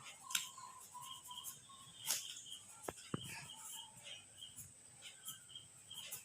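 Small birds chirping in short, repeated notes, with a steady high whine behind them and a few sharp clicks, the loudest about two seconds in.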